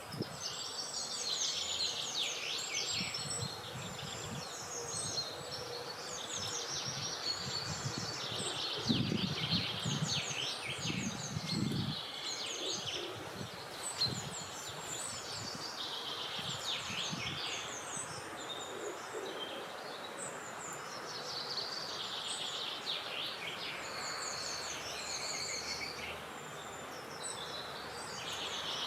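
Birds singing continuously in rapid high chirps and trills, with gusts of wind rumbling low on the microphone, strongest about nine to twelve seconds in.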